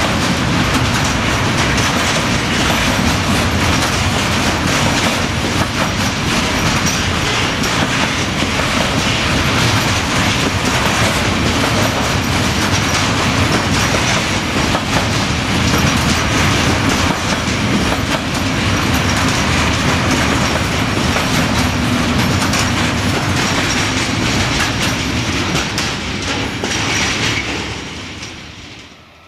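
Long container freight train's wagons rolling past, a steady loud rumble with wheels clattering on the rails. It fades away over the last couple of seconds.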